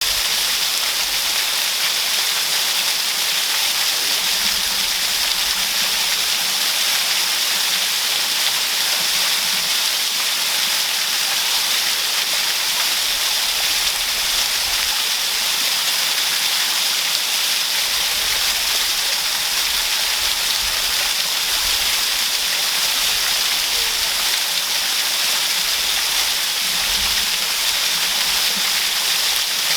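Waterfall pouring steadily, a loud even rushing hiss of falling water with an uneven low rumble underneath.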